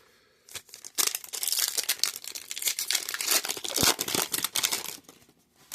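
Foil trading-card pack wrapper crinkling and tearing as it is ripped open and handled, a dense run of crinkling from about a second in until near the end.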